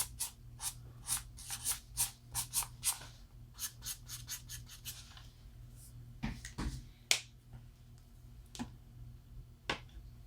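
Alcohol marker tip flicked across paper in quick strokes, about three a second for the first few seconds, then more sparsely, with a few knocks further on.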